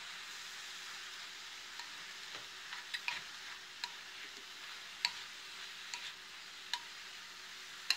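Cauliflower rice with ham and scrambled egg sizzling softly in a stainless steel skillet as it is stirred and mixed. The stirring utensil clicks against the pan now and then.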